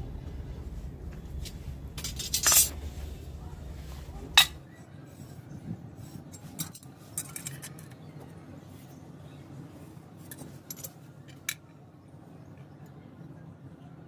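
Hard metal and glass workpieces being handled, with scattered clinks and taps and one sharp knock. A low machine hum stops about four and a half seconds in.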